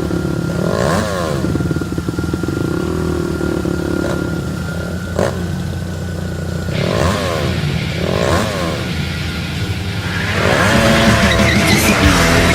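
A motor vehicle engine running and revving up several times, louder near the end.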